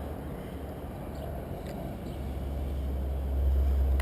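Low wind rumble on the microphone, growing stronger about three seconds in, with a few faint clicks.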